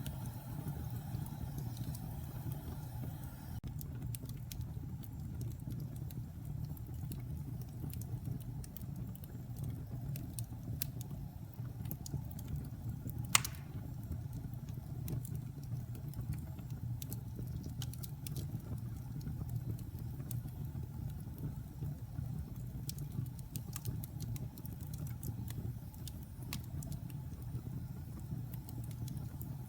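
Wood fire in a fireplace burning with a steady low rumble and scattered small crackles, plus one loud sharp pop about halfway through.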